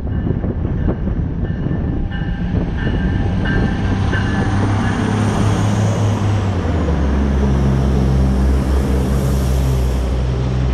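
A train running through the station past the platform, with a steady low engine hum that drops in pitch and grows stronger about six and a half seconds in, and some short high-pitched tones from the wheels or rails in the first few seconds.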